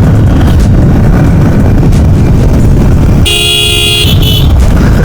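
Steady engine and wind rumble of a vehicle on the move, with a horn honking about three seconds in: one longer toot followed by a short one.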